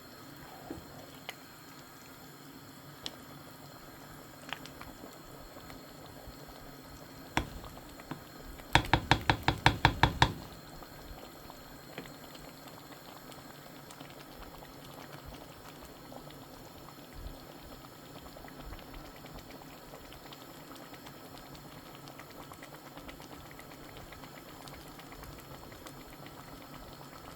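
Pot of egusi and afang soup simmering with a steady bubbling hiss. About nine seconds in, a quick run of about ten sharp knocks, with a few single clicks scattered elsewhere.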